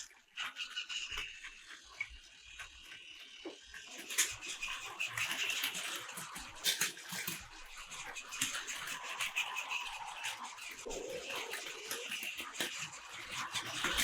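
Plarail battery-powered toy trains running on plastic track: a small motor whirring with many sharp clicks and rattles from wheels and track.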